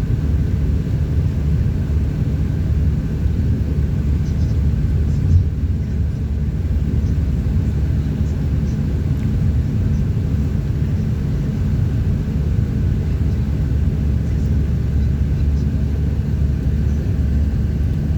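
Steady low rumble of a car driving along a road, engine and tyre noise with no change in pace, and one brief knock about five seconds in.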